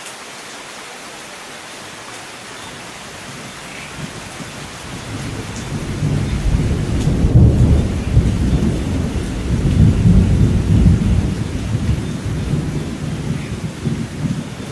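Steady rain hissing, with a long roll of thunder building about four seconds in, rumbling loudest through the middle and slowly dying away.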